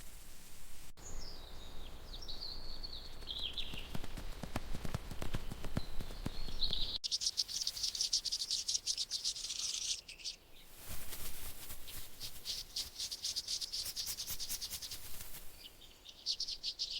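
Tropical forest wildlife: a bird's warbling call sliding down in pitch about a second in, then from about seven seconds in a dense, rapid, high-pitched insect trill that dips briefly near ten seconds.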